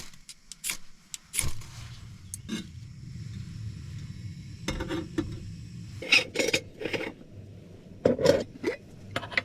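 Pots, cups and utensils clinking and knocking as they are handled, in irregular bursts, over a steady low hum.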